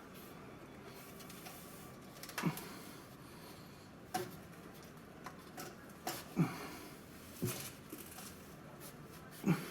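Engine oil dripping from the drain hole into a drain pan, with single drips landing every second or two, each a short plop, at the tail end of an oil drain.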